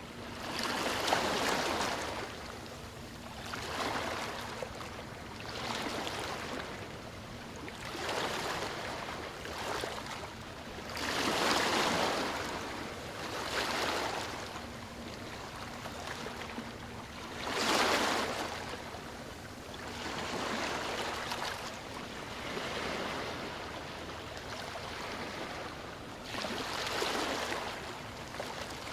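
Sea waves washing in and out, the sound swelling and easing every two to three seconds, with the biggest surges about a second, twelve seconds and eighteen seconds in.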